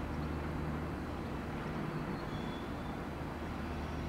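Electric local train running, a steady low hum with an even rumble underneath.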